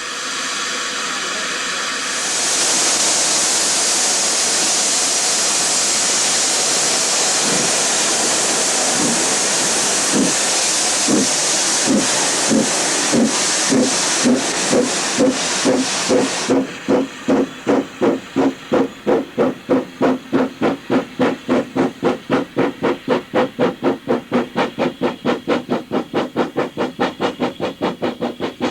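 Bagnall 0-6-0 industrial tank steam locomotive starting away: a loud hiss of steam from the open cylinder drain cocks, with exhaust beats coming through and quickening. About sixteen seconds in the hiss cuts off as the cocks are closed, leaving crisp, steadily quickening chuffs.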